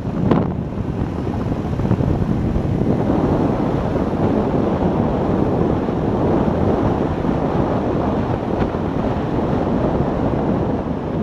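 Waterfall water rushing, a steady, loud, even noise.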